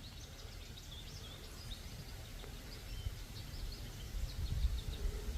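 Small birds chirping and twittering, many short, high notes, over a low rumble that grows louder in the second half.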